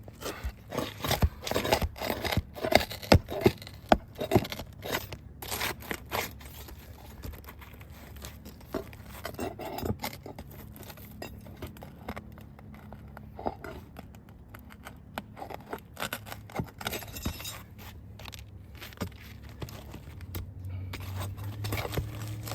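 Roof shingle being pried up and worked by hand, with scraping, crackling and tearing as it pulls away from what lies under it. The sharp scrapes and cracks come thick and loud for the first few seconds, then grow sparser.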